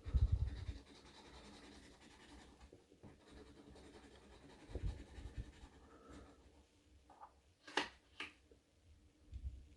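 Scratch-off lottery ticket being scratched, a soft scraping on the coating, with a few low handling thumps (the loudest right at the start) and two sharp clicks near the end.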